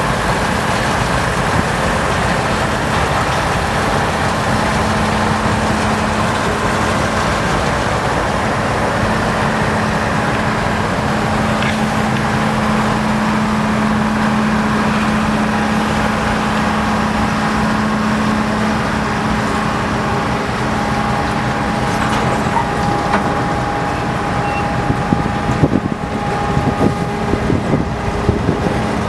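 EMD GP38 diesel locomotive running steadily, its engine giving a constant low drone. Near the end comes a run of short knocks.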